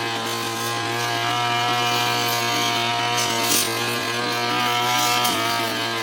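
Petrol brush cutter (grass-cutting machine) running at high speed while cutting tall, thick grass, its engine pitch wavering slightly as it works.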